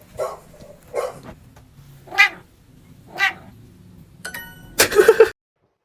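A cat meowing and yowling in short calls about once a second, ending in a louder yowl that cuts off suddenly.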